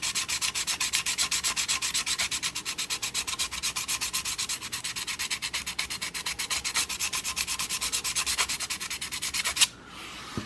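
Steel broadhead blade rubbed flat on a diamond sharpening plate in quick back-and-forth strokes, about six a second, a steady scraping that stops suddenly near the end. The strokes are stripping the paint coating off the blade's flat back side down to bare metal.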